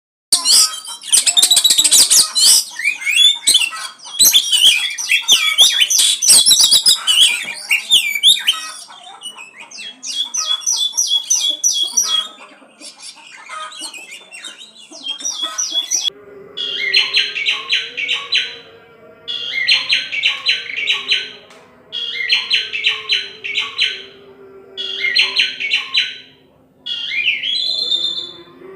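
Oriental magpie-robin (kacer) singing: a dense, varied, high-pitched song at first, then short trilled phrases repeated about every two and a half seconds from about halfway, over a faint low steady hum.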